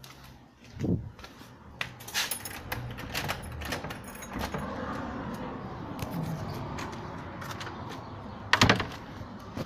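Rattling and knocking from a neighbour's early-morning work, with a thump about a second in, a steady clatter through the middle, and a loud bang near the end.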